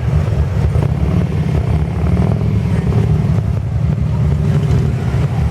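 A classic car's engine running steadily close by, a low, even, pulsing engine sound.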